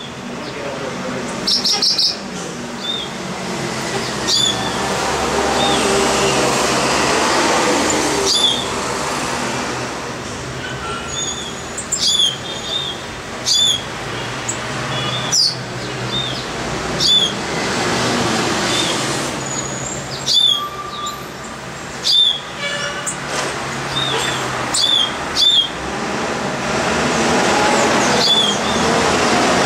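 A bird giving short, sharp, downward-sweeping chirps, repeated every second or two, over steady city traffic noise that swells and fades as vehicles pass.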